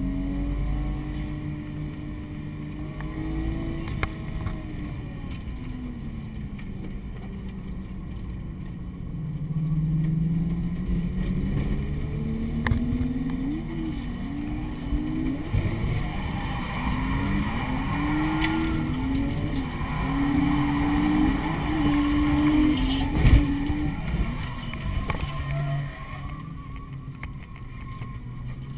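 Drift car's engine heard from inside the cabin during a drift, the revs swinging up and down. The swings come fast and hard through the second half, and there is one sharp knock about three quarters of the way in.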